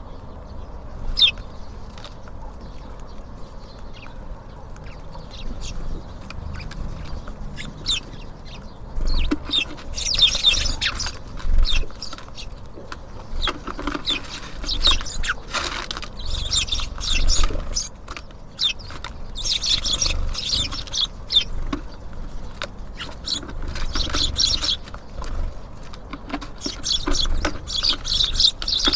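Small birds at a feeder giving many short, high chirps and calls, sparse at first and much busier from about nine seconds in, over a low steady rumble.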